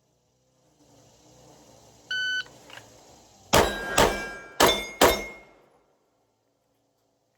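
Electronic shot timer beeps once, then a 9mm Glock 17 pistol fires four rapid shots in two pairs, with a slightly longer gap between the pairs: a two-targets, two-shots-each transition drill.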